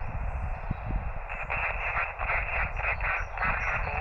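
Shortwave SSB receiver hiss from the transceiver's speaker, confined to the narrow voice passband. From about a second in it grows louder and choppier as a weak signal fades in and out of the noise, over a low rumble.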